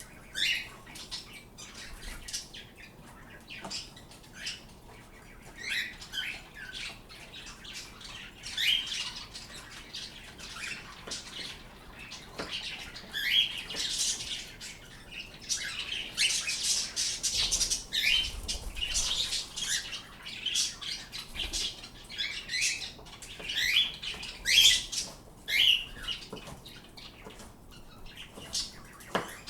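Pet birds chirping and squawking in a rapid string of short, high calls, busiest around the middle.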